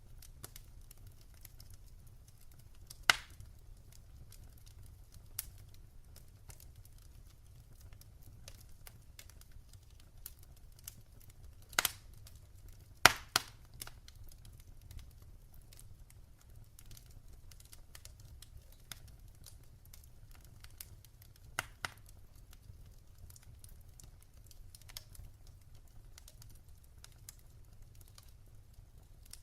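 Fireplace fire crackling: a constant patter of small crackles with a few sharp, louder pops, two close together near the middle, over a steady low rumble.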